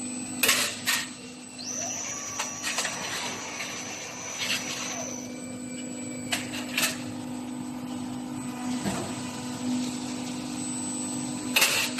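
Z-profile fence roll forming machine running with a steady hum. Sharp metallic clanks come in quick pairs: near the start, about six and a half seconds in, and again near the end.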